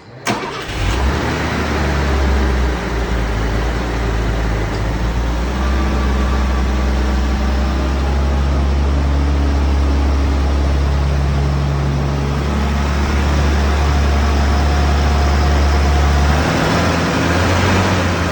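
1973 BMW Bavaria's straight-six engine starting from cold: it catches almost at once and settles into a loud, steady idle. The engine note shifts about sixteen seconds in.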